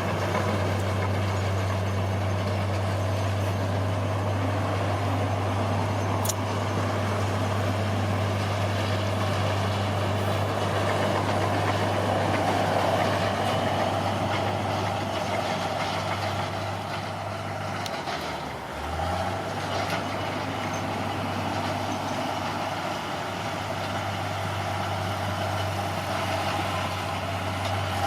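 Bulldozer's diesel engine running steadily under work. Its hum briefly sags and drops out about two-thirds of the way through, then picks up again.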